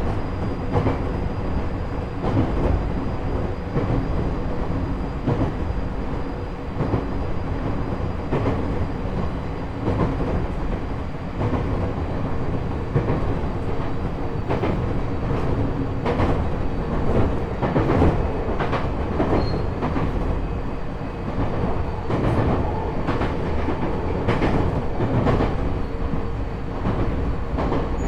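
JR East E127 series electric train heard from inside its motor car KuMoHa E127-11, running at steady speed. Wheels click over rail joints again and again, with a steady gear whine held at one pitch; on this car the whine carries an extra tone a semitone above the usual one, an abnormal gear noise.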